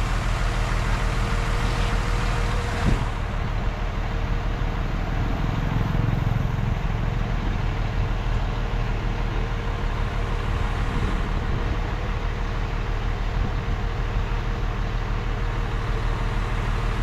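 Heavy diesel engine of earthmoving machinery running steadily under work, with a constant tone over its rumble and one short knock about three seconds in.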